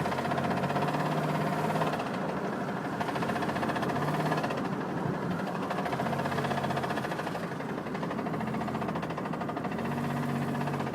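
Van engine running with rod knock: a steady, rapid knocking from a worn connecting-rod bearing, beating with the engine's rotation.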